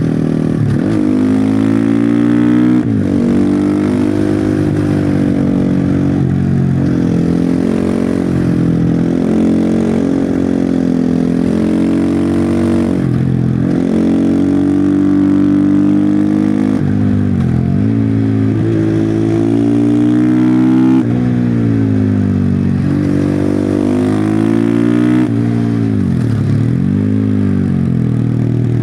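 Husqvarna FE501 single-cylinder four-stroke engine through its stock exhaust, revving up and down as the supermoto is ridden hard through bends. The pitch climbs under throttle and drops sharply several times as the rider shifts or slows for corners.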